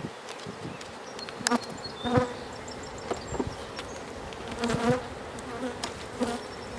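Honey bees buzzing around an open hive, with individual bees flying past close by. A few sharp clicks and knocks sound through it.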